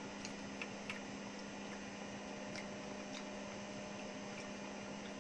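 Steady low hum over a faint hiss, with a few faint short clicks in the first second and again around three seconds in.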